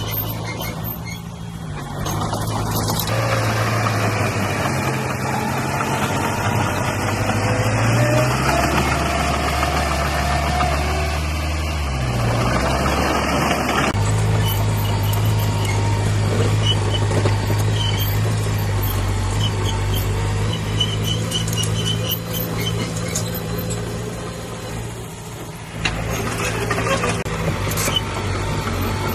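Heavy diesel machinery engine running, its low drone stepping up and down in pitch as the load changes, with abrupt jumps every ten seconds or so. A faint high squeaking comes through in the middle.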